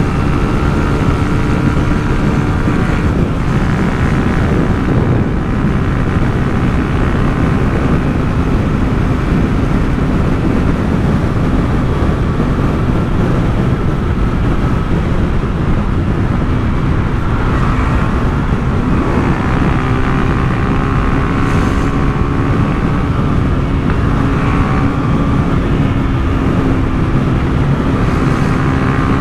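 Honda CG Titan 150's single-cylinder four-stroke engine running through an aftermarket Turuna exhaust while riding, its note fairly steady with small rises and falls in pitch. Wind rushes over the microphone throughout.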